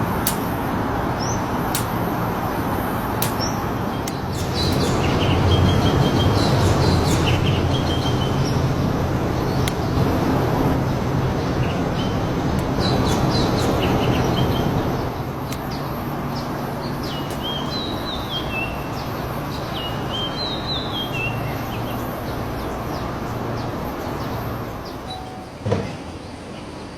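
Birds chirping in short, repeated phrases in several bouts over a steady rumble of traffic. A single knock sounds near the end.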